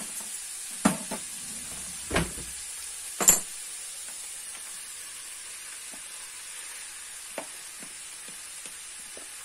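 Soy meat sizzling steadily in a frying pan as chopped onion and grated carrot are tipped in from a plastic bowl. There are three loud knocks in the first few seconds, then a few light ticks.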